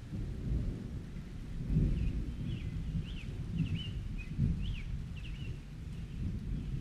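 Rolling thunder rumbling under steady rain, swelling twice. A few short bird chirps are heard in the middle.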